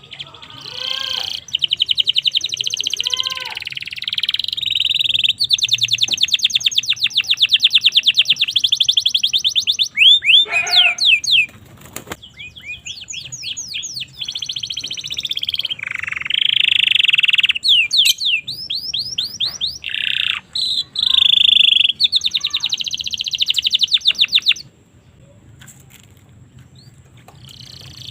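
Domestic canary singing: long, very fast high trills and rolls in phrases of a few seconds each, with short breaks and some sweeping notes between them. The song drops away near the end.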